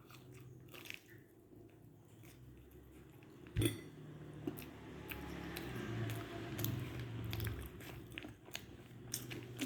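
Close-up eating sounds of a corn dog being bitten and chewed: crisp crunches and wet chewing, with one loud crunchy bite about three and a half seconds in.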